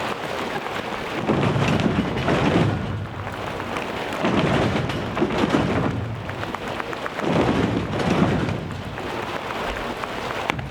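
A rainstorm effect: a steady patter of rain with three swelling, thunder-like rumbles about three seconds apart.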